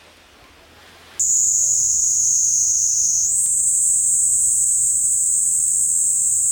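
Insects shrilling in a steady high-pitched chorus, coming in abruptly about a second in after faint hiss and stepping slightly higher in pitch about three seconds in.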